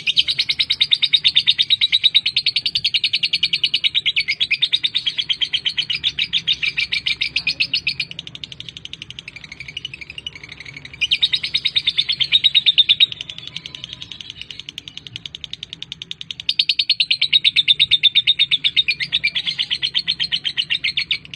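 Lovebird ngekek: long bouts of rapid, high, evenly repeated chattering notes. One runs about eight seconds, a shorter one follows, and another comes near the end, with softer chatter in the gaps.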